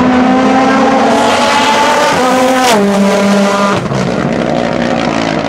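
Race car engine at full throttle accelerating, its pitch climbing steadily. About halfway through, an upshift with a sharp crack drops the pitch. The engine pulls again and shifts once more a little later.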